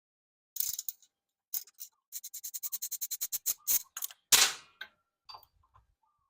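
Ratchet wrench clicking in a quick even run, about ten clicks a second, among scattered knocks of hand tools on metal, with a brief louder scrape about two-thirds through.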